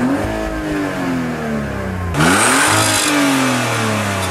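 Car engine revved while parked: the revs fall away, then a second sharp blip about two seconds in brings a louder rush before the pitch sinks again.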